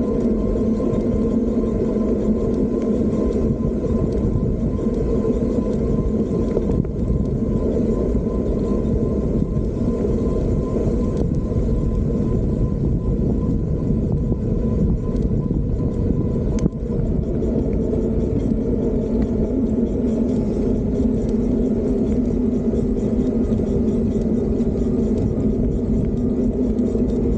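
Wind buffeting and road rumble on the microphone of a moving Fiido D3 Pro electric bike, with a steady hum underneath. A single sharp click comes about two-thirds of the way in, and the highest hum tone stops there.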